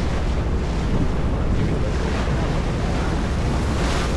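Wind buffeting the microphone over the steady rush of water and the rumble of a moving tour boat.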